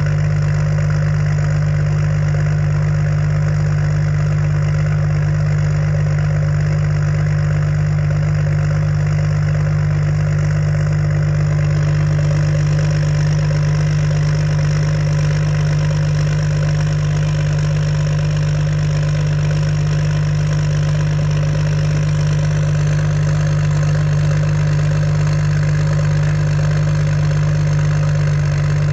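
6.7 Cummins turbo-diesel inline-six, fitted with an S467 turbocharger, idling steadily while warming up after a cold start at 13°F without a grid heater. A little more high hiss joins in about halfway through.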